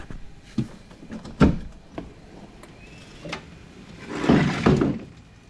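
A few light knocks and clunks, then a louder scraping rustle lasting under a second, about four seconds in.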